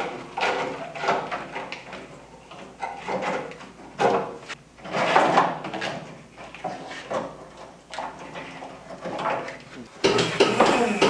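Irregular metallic clanks, knocks and scraping from hand tools and body parts being worked loose on an old pickup truck, with quiet gaps between them. A louder, denser sound, likely music, comes in about a second before the end.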